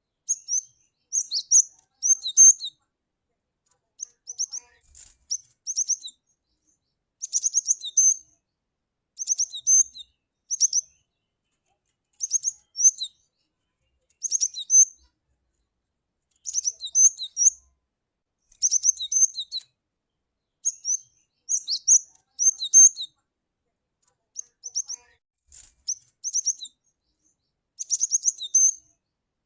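Cinereous tit (glatik batu) calling: high, sharp chirps in quick clusters of two to four notes, repeated every second or two.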